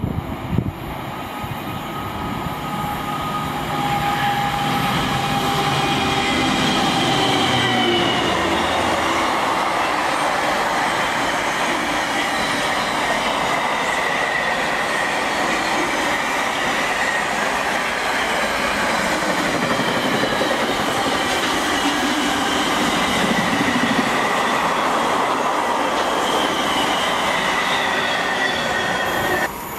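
Class 66 diesel freight locomotive's two-stroke V12 engine running as it hauls a container train past. About eight seconds in, the engine sound gives way to the steady rumble and rattle of the passing container wagons, with high wheel squeal gliding over it.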